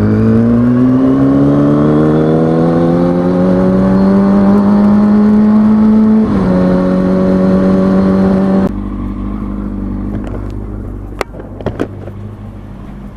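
2003 Kawasaki ZX-6R 636 inline-four engine pulling hard through a gear, its pitch rising steadily, with an upshift about six seconds in and a steady pull after it. About two seconds later the throttle closes and the sound drops suddenly to a quieter, low running, with a few clicks near the end.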